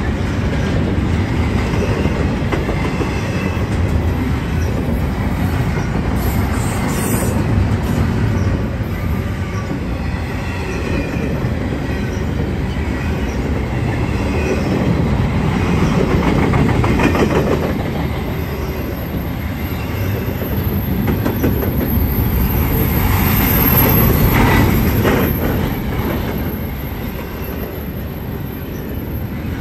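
Norfolk Southern double-stack intermodal freight train rolling past: a steady rumble of steel wheels on rail with a clickety-clack of the wheels over rail joints and a faint, wavering squeal from the wheels.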